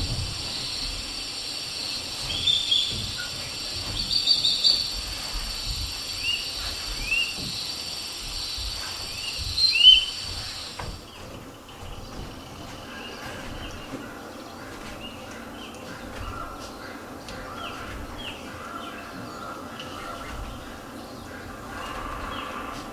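A series of short, rising, bird-like chirps, about a dozen in the first ten seconds, over a steady hiss that cuts off just before the middle; after that only faint shuffling noise.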